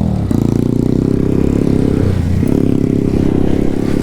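Alpha moped's single-cylinder four-stroke engine running under way. Its note drops sharply right at the start, then pulls steadily, with another short dip about two seconds in.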